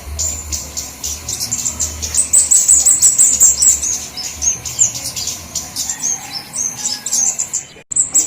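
Busy chatter of small flowerpecker (cabe-cabean) calls: rapid, very high, short chirps and ticks overlapping like a noisy flock, played as a bird-trapping lure recording. A low hum sits under the first few seconds, and the calls break off briefly near the end.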